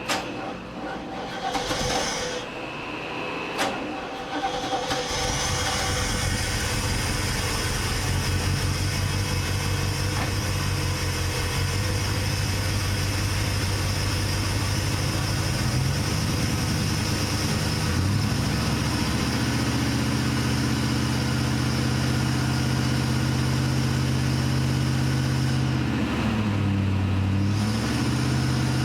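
Old car's engine starting about five seconds in, after a few clicks and knocks, then idling steadily; the idle rises a little past halfway and dips briefly near the end before recovering.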